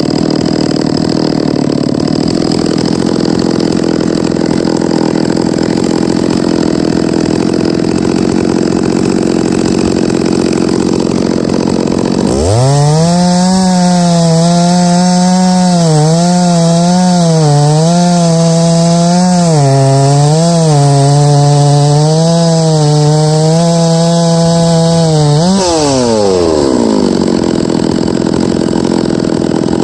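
Chainsaw mill ripping through an oak log, the saw engine running flat out under load. About twelve seconds in, a louder, clearer engine note takes over and wavers slightly as the saw pulls through the cut. Near the end its pitch falls away as the throttle is let off.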